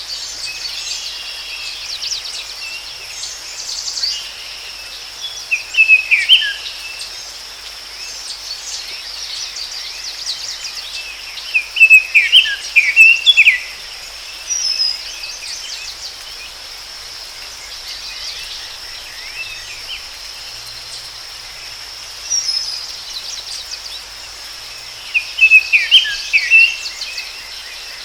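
Forest ambience: a steady high insect drone with birds chirping over it. A louder bird phrase of quick falling whistles comes about six seconds in, again around twelve seconds, and once more near the end.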